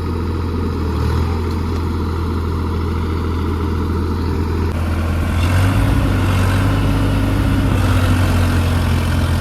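Tractor diesel engine running steadily, then revving up and getting louder about five seconds in.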